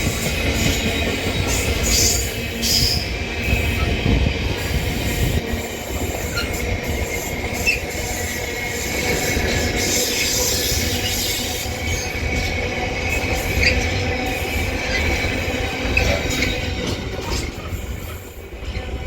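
A long freight train's wagons rolling through the station at speed: a steady rumble of wheels on rail with a high-pitched wheel whine over it and occasional clicks from the rail joints, easing off near the end.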